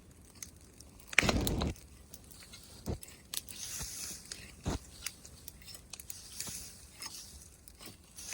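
Bonfire of branches and leaves crackling, with scattered sharp pops and a soft hiss, and one louder crunching rustle about a second in.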